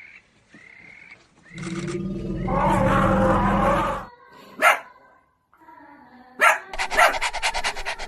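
Animal calls: a drawn-out low growl-like call of about two and a half seconds, a short sharp call, then a rapid series of sharp calls near the end.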